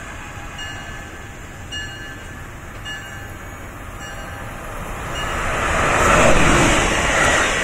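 MARC express train approaching at speed, its rumble growing steadily louder from about five seconds in. Before that, a steady low hum with short high beeps about once a second.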